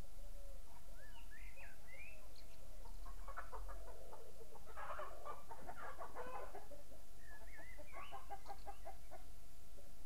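Birds calling: curling whistled notes, then several runs of rapid chattering notes, busiest in the middle.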